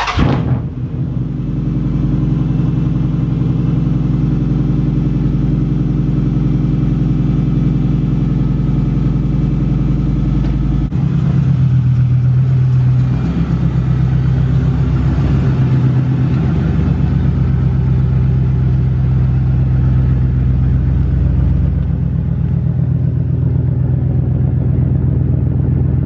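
Dodge Charger SRT8's 6.1-litre Hemi V8 on a cold start: a short loud flare as it catches, then a steady fast idle. About eleven seconds in the engine note changes and it keeps running steadily.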